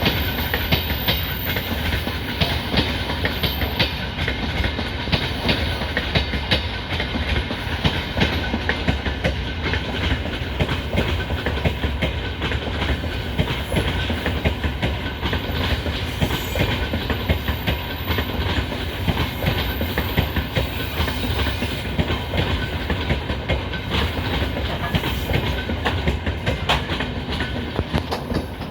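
Freight train behind a 3ES5K "Ermak" electric locomotive rolling past, its wheels clattering steadily over the rail joints in a continuous run of clicks.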